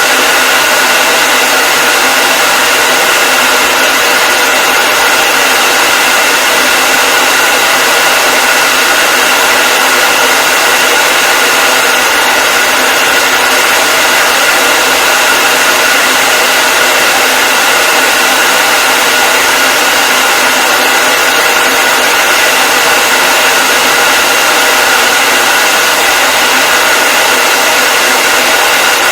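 Hair dryer running continuously at a steady speed: an even, loud rushing of air with a steady motor whine, unchanging throughout.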